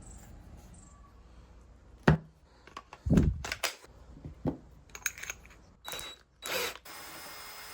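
Workshop handling sounds of wood and tools: a sharp knock about two seconds in, a heavier thump a second later, a scatter of light clicks and another knock, then two short noisy rushes near the end. A steady mechanical hum sets in just before the end.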